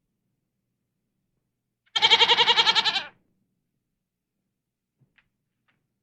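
A single wavering bleat, about a second long, from a sheep or goat-like farm animal, starting about two seconds in.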